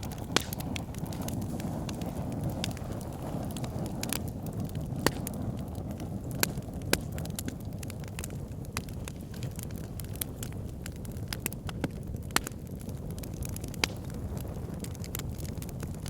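Wood fire in an outdoor fire pit burning with a steady low rush of flame, crackling with scattered sharp pops, a few of them louder snaps.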